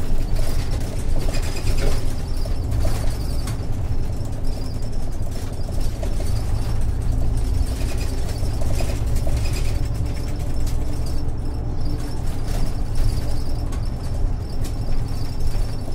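Isuzu Erga city bus's 6HK1-TCC diesel engine running, heard inside the cabin: a steady low drone with irregular rattling from the bus's interior fittings.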